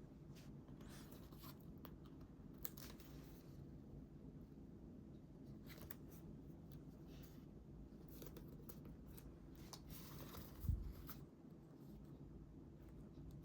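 Quiet paper handling during scrapbooking: faint, scattered rustles and short scraping strokes of paper, with one soft low thump about eleven seconds in, over a low steady hum.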